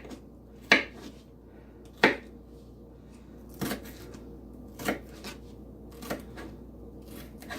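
Knife chopping an onion on a cutting board: six sharp, unhurried cuts, roughly one every second and a quarter.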